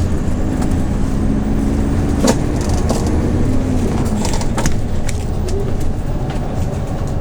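Hyundai New Super Aero City CNG city bus engine running on the move, heard from inside the bus. Its pitch holds steady, then falls about three to four seconds in as the bus eases off, with a few sharp rattles and clicks from the body.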